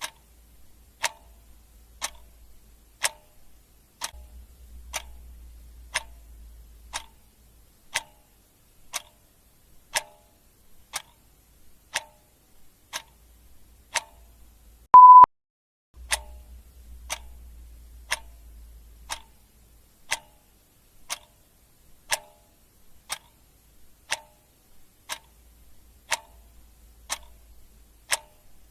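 Clock ticking steadily, one sharp tick a second. About halfway through, a single short, loud high beep sounds once.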